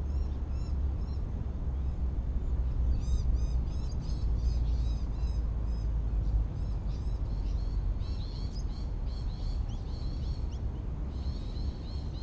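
Small birds chirping in quick runs of short, high, repeated notes over a steady low wind rumble on the microphone.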